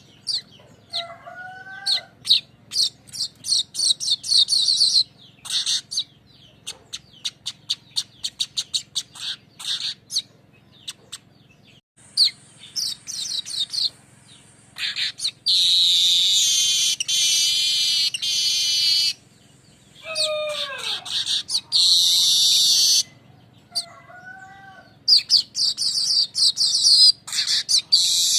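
Manyar weaver singing its chattering song: rapid runs of dry clicking ticks, then long high buzzy sizzling trills. A few short lower whistled glides are scattered between them.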